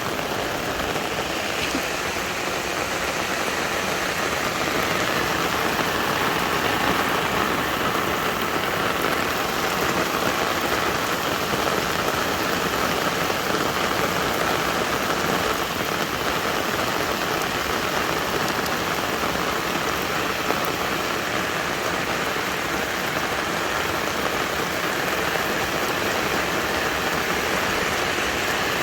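Heavy rain falling steadily, an even hiss of drops beating on surfaces.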